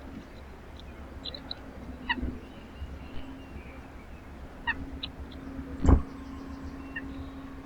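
Small birds giving short, scattered chirps over a steady low hum. There are two dull thumps, a softer one about two seconds in and the loudest one about six seconds in.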